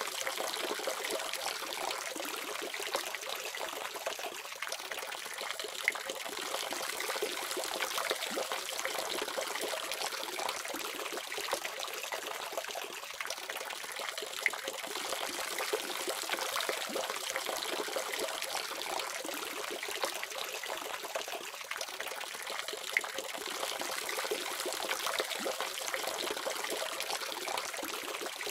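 Water running steadily from a faucet, an even splashing hiss with a few brief louder drips.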